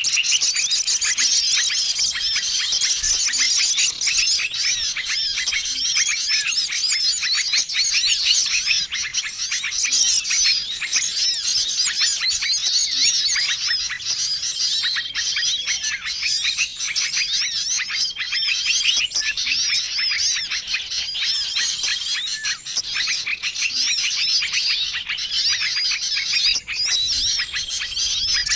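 Bird-lure recording of many small songbirds calling at once, a dense noisy chorus of chirps and twitters. A single held whistle recurs every few seconds beneath the chirping.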